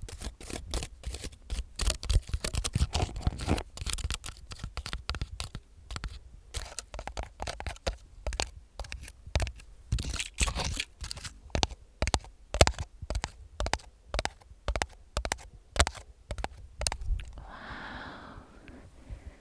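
Long fingernails tapping and scratching on a hard surface in quick, irregular clicks and scrapes. A short soft whisper comes near the end.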